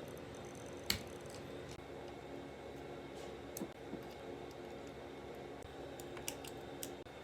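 Scattered small clicks and taps of tools and parts on a phone being taken apart. The sharpest click comes about a second in, with a few lighter ones later, over a steady low hum.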